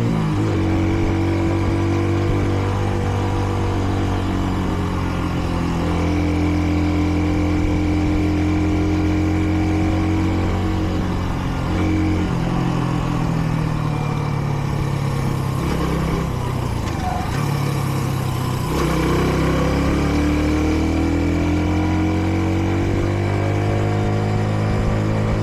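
Kreidler Dice CR 125 motorcycle's single-cylinder 125 cc engine running under way, changing pitch with gear changes. It slows about two-thirds of the way through, then rises steadily as the bike accelerates again. The engine is still being run in, so it is held to moderate revs.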